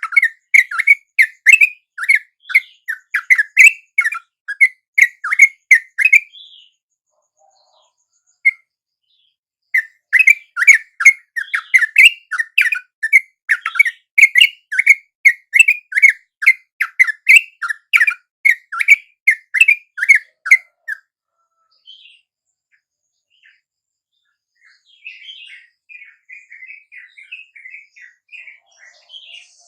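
Yellow-vented bulbul (trucuk) calls: loud, fast repeated notes, about three to four a second, in two long bouts with a pause between. Near the end a fainter, quicker chattering follows.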